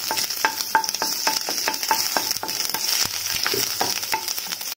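Cinnamon sticks and ginger-garlic paste sizzling in hot oil in a pan, with a wooden spatula scraping against the pan in quick stirring strokes, about four a second.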